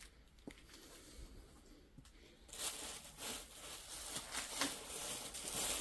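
Rustling and crinkling as things in a box are rummaged through by hand, starting about two and a half seconds in after a few faint clicks.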